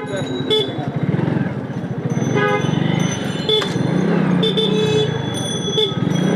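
Motorcycle engine running steadily while riding in dense city traffic, with about five short vehicle horn toots sounding through it.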